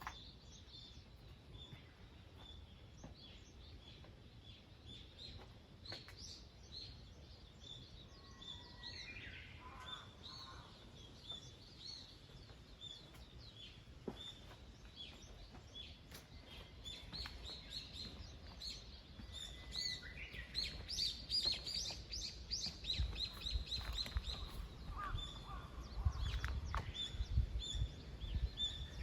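Small songbirds chirping and singing, many short high notes repeated throughout, with a few lower phrases among them. A low rumble comes up over the last few seconds.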